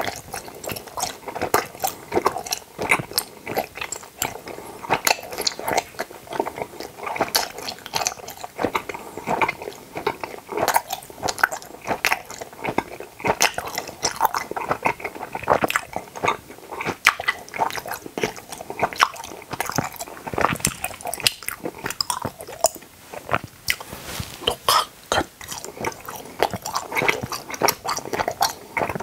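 Close-miked chewing of tooth-shaped gummy jelly candies: a dense, uneven stream of small, sharp mouth clicks.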